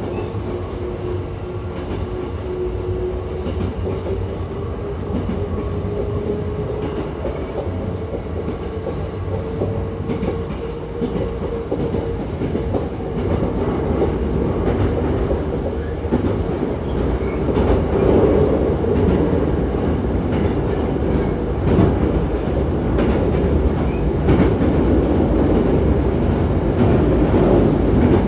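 Hankyu 9000-series electric train running, heard from inside the car by the doors. A motor whine rises slowly in pitch over the first dozen seconds as the train gathers speed. Then the wheel-and-rail rumble grows louder, with a few sharp clicks from the track.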